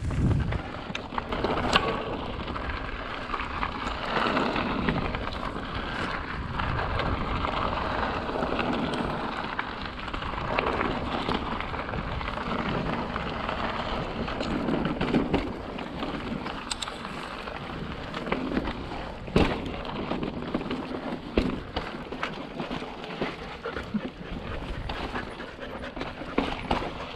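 Mountain bike rolling over slickrock: a continuous, uneven rush of tyre and riding noise with occasional sharp knocks and rattles, two of them standing out about 2 seconds in and near two-thirds of the way through.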